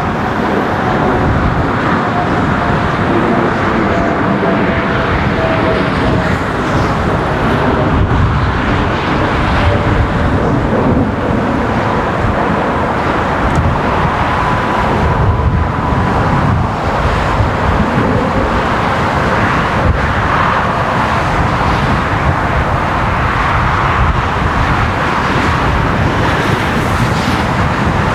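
Jet engines of an Air Canada Boeing 787-9 Dreamliner making a steady, loud roar, with a faint whine that falls slowly in pitch as the aircraft moves along.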